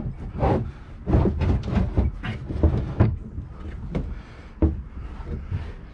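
Boat fuel tank being shifted back inside the hull, with a run of irregular knocks, clunks and scraping against the hull and its fittings. The knocks come thickest in the first three seconds and thin out near the end.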